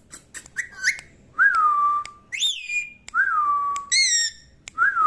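Green parrot whistling: a few short clicks, then about five whistled notes, most of them jumping up and sliding down into a held tone, with a couple of higher falling ones between.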